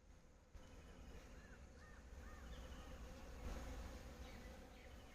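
Faint natural ambience: a bee buzzing, with a run of short, repeated bird chirps over a low rumble.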